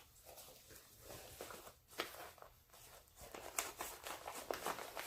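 Faint scattered clicks and taps of small chainsaw parts and tools being handled on a worktable, coming more often in the second half.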